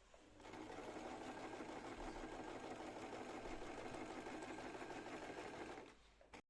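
Electric sewing machine stitching a seam, running steadily for about five seconds and then stopping near the end, followed by a brief click.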